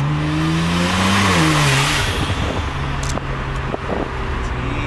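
Car engine revving up, its pitch climbing to a peak about a second in and falling back within another second, then settling into a steady low running hum.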